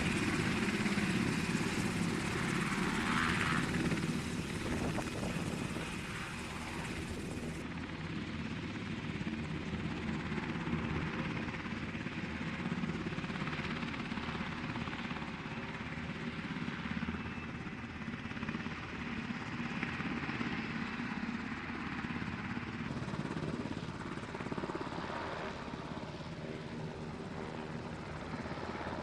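Military aircraft engine noise, a steady loud rumble with hiss, changing abruptly twice as the shots cut.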